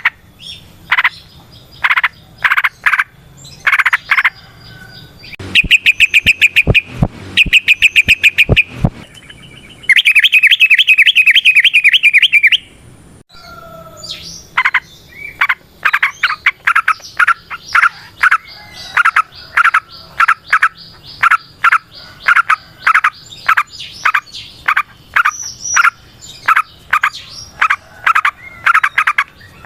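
Yellow-vented bulbul (trucukan) calling in loud, rapid series of short repeated notes. Between about 5 and 9 s come loud pulsed calls, and a fast trill follows about 10 to 12 s in.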